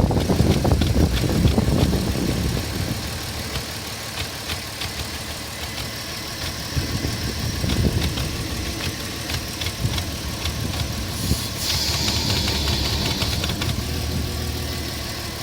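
Porsche Cayenne 3.2 VR6 engine running on LPG while cold, noisy: louder for the first couple of seconds, then settling to a steadier idle with a fine ticking clatter throughout. A brief hiss comes about twelve seconds in.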